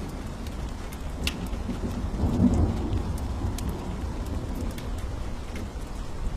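Steady rain with a low rumble of thunder that swells about two seconds in and fades, and scattered sharp ticks.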